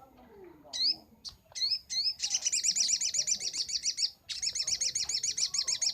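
Crimson sunbird (sogok ontong) singing. A few short, rising high chirps come first, then two long, very fast high-pitched trills of about two seconds each.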